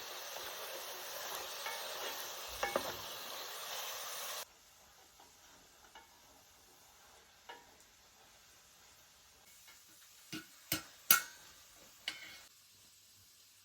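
Food sizzling in a frying pan with a steady hiss and a few utensil scrapes; it stops abruptly about four and a half seconds in. A handful of sharp clicks and knocks of utensils on cookware follow.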